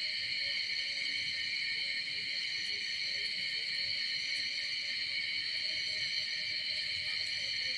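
Steady insect chorus in the pine forest, a continuous high buzzing held at a few pitches without a break.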